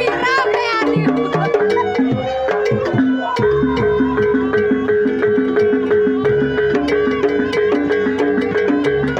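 Javanese jaranan accompaniment music: drums and percussion in a steady repeating rhythm with a melody line, which settles into a long held note about three and a half seconds in.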